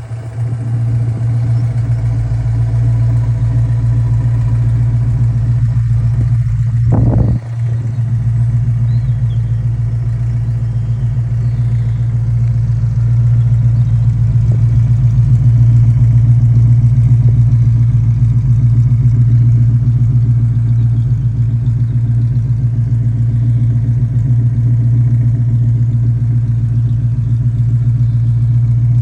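1967 Ford Mustang V8 engine running steadily, with one short blip of the throttle about seven seconds in that rises and drops away sharply.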